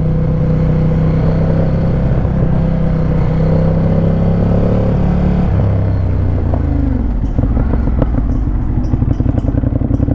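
Ducati Monster 821's L-twin engine running steadily, then dropping in pitch as the bike slows about halfway through, and settling into a pulsing, uneven idle for the last few seconds.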